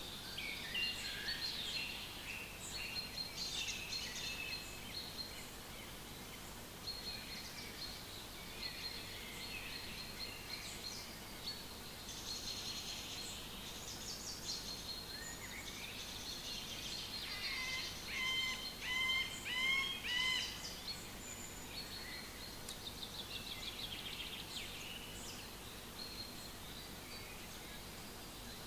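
Several birds singing in a forest, overlapping chirps and trills throughout. From about two-thirds of the way in, one nearby bird repeats a clear, louder phrase four or five times.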